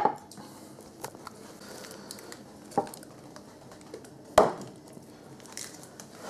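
A few scattered light knocks and clicks from things being handled, the loudest about four and a half seconds in.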